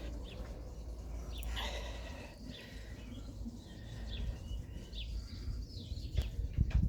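Faint, scattered bird chirps over a steady low rumble, with a few soft low thumps near the end.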